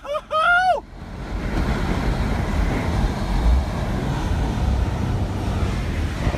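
A person's voice calls out briefly at the start, then a steady rushing noise of wind buffeting the microphone.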